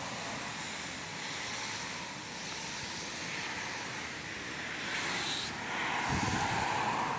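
Steady rushing noise of wind and rain outdoors, swelling about five seconds in, with a low wind rumble on the microphone near the end.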